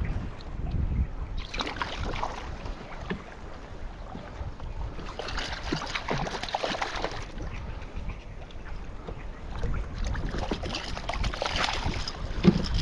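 Water sloshing and splashing against a kayak in irregular bursts, over a steady low rumble of wind on the microphone.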